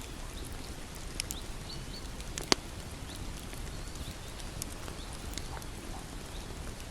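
Wood bonfire crackling: irregular sharp pops and snaps over a steady low rumble of the flames, with one loud pop about two and a half seconds in.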